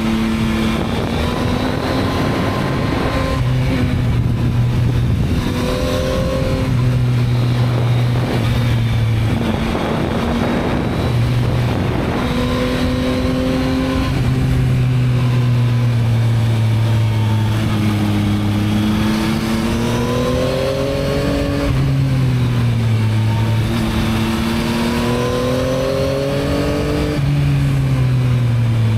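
Yamaha MT-09's 890 cc inline-three engine through its stock exhaust, on the move: the engine note repeatedly rises under acceleration and falls as the throttle eases, with a sudden drop near the end, over a rush of wind noise.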